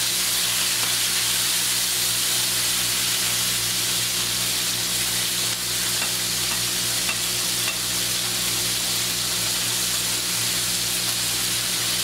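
Italian sausages, sliced peppers and onions sizzling steadily in a frying pan as they are stirred with tongs, with a few faint clicks of the tongs against the pan.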